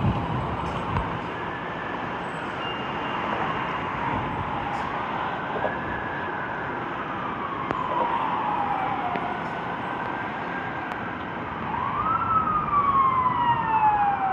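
Several emergency-vehicle sirens wailing together, each slowly rising and falling in pitch and overlapping, over a steady rushing background; one siren swells up and grows louder near the end.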